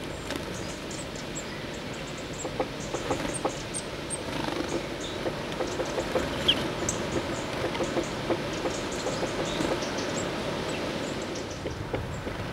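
Small wild birds at a seed feeder: scattered quick pecking taps and scrabbling, with brief very high chirps, over a steady low rumble.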